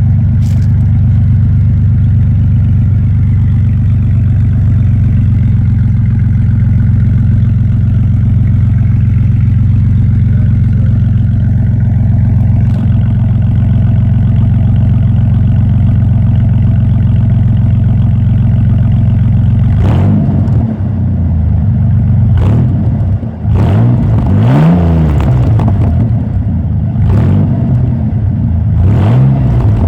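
1998 Ford Ranger's 3.0-litre V6 running through an open exhaust with the muffler disconnected. It idles steadily for about twenty seconds, then is revved in several quick blips near the end.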